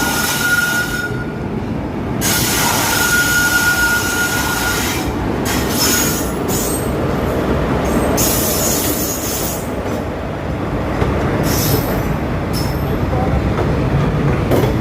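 Express passenger train running through a station at high speed without stopping: a loud continuous rush of wheels on rails, with a thin high steady tone twice in the first five seconds and repeated short bursts of hiss.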